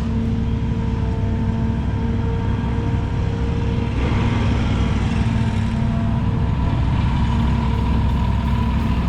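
An engine running steadily at constant speed, with a low hum and a few held tones.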